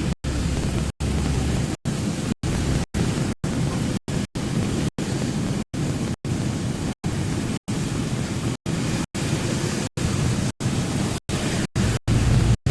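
Steady low rumbling noise, cut off again and again by brief dropouts to complete silence, a little more than once a second at uneven spacing.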